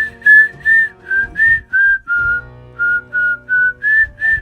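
A person whistling a theme-song tune: a string of short separate notes, about three a second, stepping up and down in pitch.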